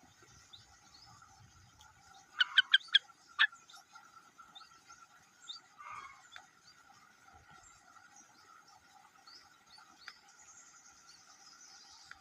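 A bird gives a quick run of about five sharp chirps, then one more, and later a fainter call. A steady high background drone runs underneath.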